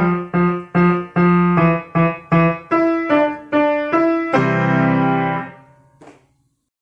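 Piano played by a kindergarten child: a run of short, detached notes, two or three a second. The piece closes on a held final chord about four and a half seconds in, which dies away a second later. A faint knock follows near six seconds.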